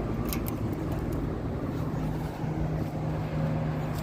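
Steady low hum and rumble of running commercial air-conditioning units, with a low steady tone coming in about two seconds in.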